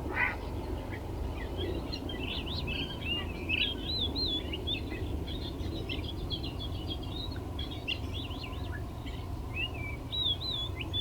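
Small birds chirping and twittering in quick, varied notes, with a few wavering whistled phrases, over steady low background noise.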